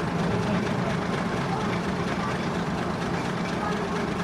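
Steady low rumble of a heritage railway train, even in level throughout.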